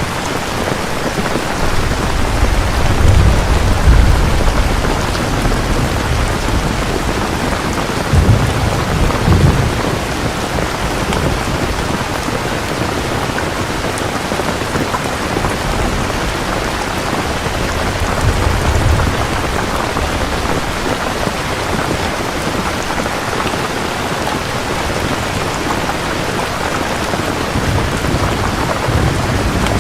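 Steady rain pouring down in a thunderstorm, with low rolling thunder rumbling four times: the strongest about three to four seconds in and again around eight to nine seconds in, weaker ones around eighteen seconds and near the end.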